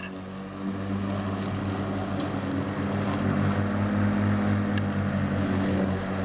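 Electric lawn tractor running, its electric motors and spinning mower blades giving a steady hum that swells slightly about a second in.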